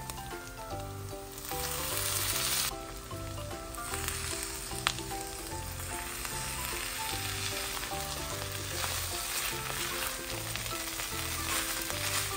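Shredded chicken sizzling as it fries in a hot pan, with sauce poured in and the chicken stirred with a spatula; the sizzle is loudest for about a second early on. Background music with a steady bass pattern plays underneath, and there is one sharp click about five seconds in.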